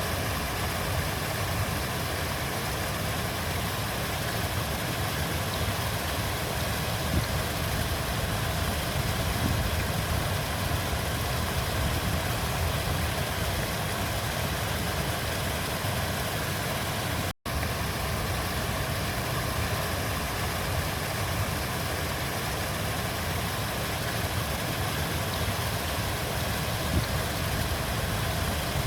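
River water flowing steadily, an even rushing noise with a low rumble under it. It drops out for a split second a little past halfway.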